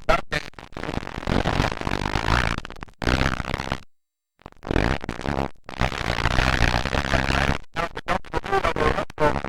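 Motocross dirt bike engines running and revving, rising and falling in pitch, with the sound cutting out completely for about half a second around four seconds in.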